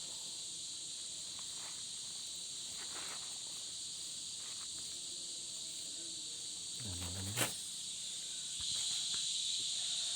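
Steady high-pitched night insect chorus in two shrill layers, growing louder near the end. A short low voice sound and a sharp click come about seven seconds in.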